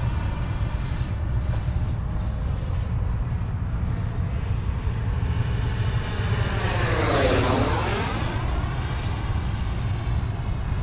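Electric ducted fan of an E-flite F/A-18 Blue Angel RC jet (80 mm EDF) whining in flight. A close pass about seven seconds in brings a loud swell of rushing air, and the high whine drops in pitch as the jet goes by.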